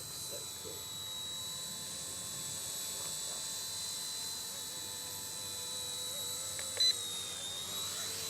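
Small electric RC helicopter (RC Era C138 Bell 206 scale model) running, its motors and rotor giving a steady high-pitched whine. A brief click sounds about seven seconds in.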